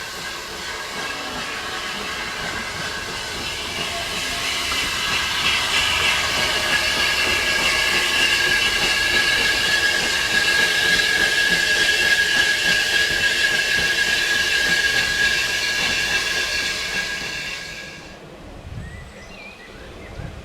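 Steam locomotive letting off steam: a loud, steady hiss with a whistling edge that builds over several seconds, then cuts off suddenly near the end.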